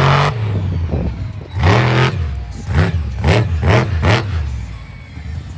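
Monster truck engine revved in a string of short throttle blips, the pitch rising and falling with each one, about six in a few seconds, easing off near the end.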